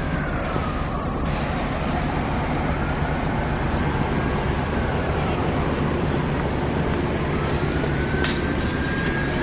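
An emergency vehicle siren wailing, its pitch slowly rising and falling every few seconds, over the steady low rumble of a large idling engine.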